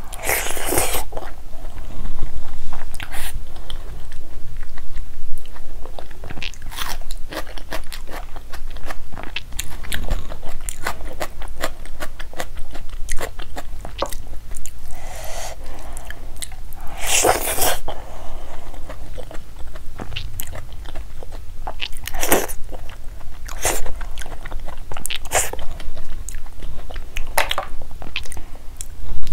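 Close-miked eating of rice with palak paneer and baingan masala taken by hand: steady chewing with many small wet mouth clicks, and several louder crunching bites, about a second in and around two-thirds of the way through.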